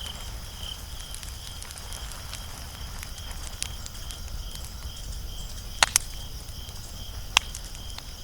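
Wood fire burning with a steady soft crackle and small ticks, broken by three sharp pops, two close together about six seconds in and one more shortly after. A faint high chirping pulse repeats a few times a second behind it.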